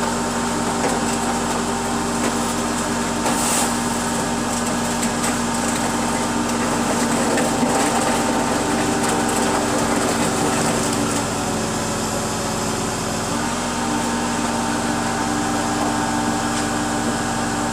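Car crusher's engine and hydraulic pump running steadily under load as it presses a car flat.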